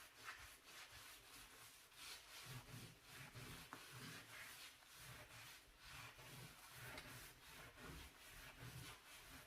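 A brush scrubbing a grimy stove or oven surface with quick, faint back-and-forth scraping strokes, about two a second. Soft low knocks join in after a couple of seconds.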